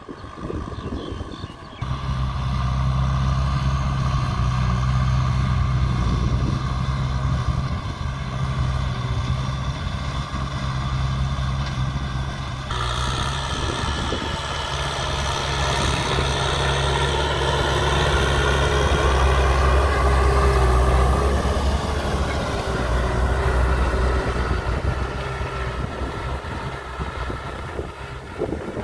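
Diesel tractor engine working steadily under load with a deep, even hum. The sound changes abruptly about two seconds in and again about halfway through, and after that its pitch wavers up and down as the load shifts.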